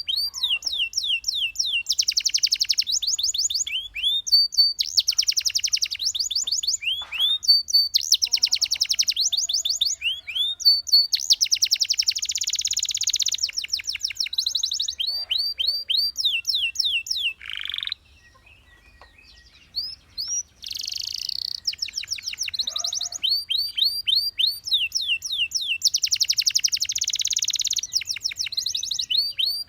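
Domestic canary singing: phrases of quickly repeated sweeping whistled notes alternate with fast rolling trills. There is a pause of about two seconds a little past halfway.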